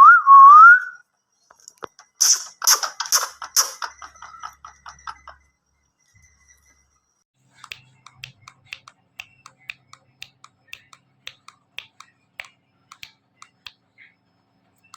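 Indian ringneck parakeet giving a loud whistle that glides upward, about a second long, then a quick run of sharp clicks and chirps. After a short pause comes a long series of faint clicks, two or three a second.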